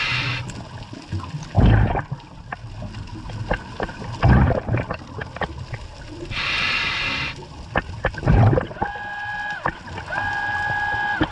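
Scuba diver breathing through a regulator underwater: hissing bursts of exhaled bubbles, low thumps, and scattered sharp clicks. Near the end there are two steady pitched tones, one short and one longer.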